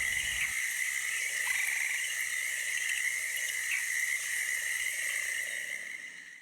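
Night chorus of Amazon rainforest insects and frogs: a dense, steady, shrill drone of many overlapping calls, fading out near the end.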